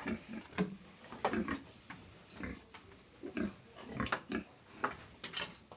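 Pigs grunting in short, separate grunts, about one or two a second.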